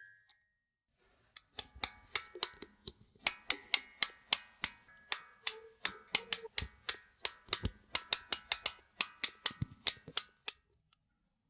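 Metallic ratchet clicking of a clockwork mechanism being wound, about three clicks a second with a faint ring, stopping just before the end.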